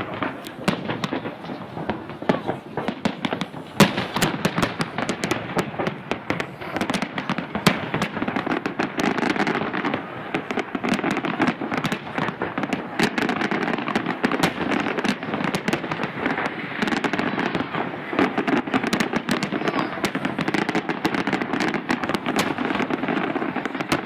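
Fireworks going off in a continuous display: many sharp bangs and cracks in quick succession over a steady crackle. Two single bangs stand out as louder, about four and about eight seconds in.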